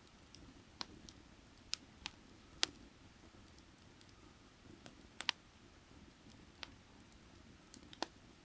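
Burning firewood crackling: irregular sharp pops and snaps, about nine of them, some louder than others.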